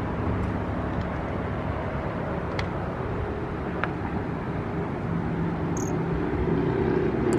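A boat's outboard motor humming steadily under a wash of wind and water noise. About six seconds in there is one brief high chirp, heard as a cricket.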